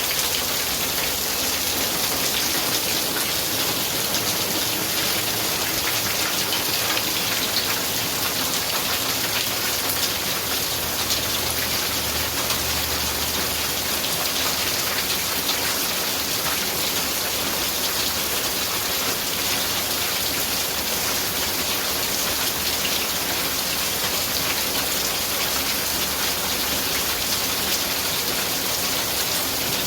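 Steady rain falling in a storm: a dense, even hiss of many drops hitting the ground and surfaces.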